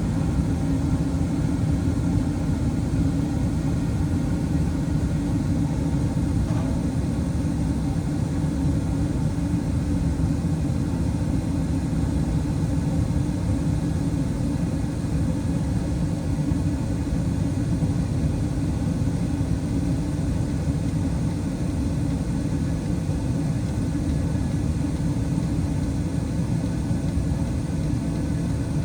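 Draft inducer fan motor of a 2019 Carrier Performance Series gas furnace running steadily during startup, a continuous low hum and whoosh of air.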